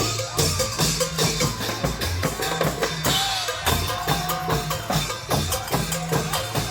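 Isan klong yao long-drum band playing: a steady run of drum strokes and cymbal hits over a low, repeating bass line.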